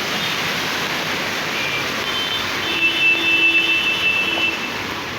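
Steady noise of road traffic on a waterlogged street. A steady high tone sounds for about two seconds from a little past halfway.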